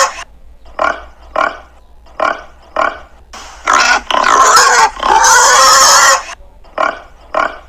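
Pig grunting in short separate grunts, twice breaking into long loud squeals in the middle.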